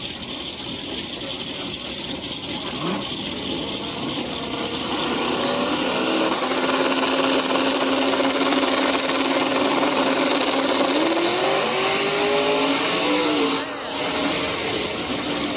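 Car engine running hard under acceleration: it grows louder about five seconds in, holds a steady pitch, then climbs in pitch and cuts off abruptly near the end before picking up again lower.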